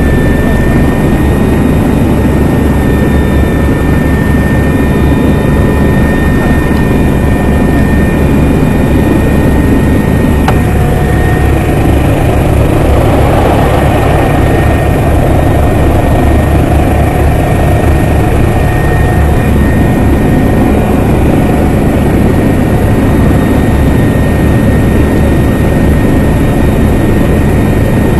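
Helicopter in flight, loud and steady: a fast low rotor beat under a constant high engine whine.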